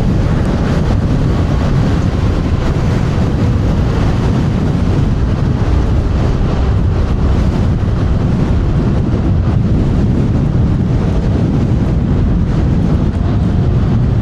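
Wind buffeting the clip-on microphone of a rider on an electric scooter moving at speed on a windy day: a loud, steady rumble.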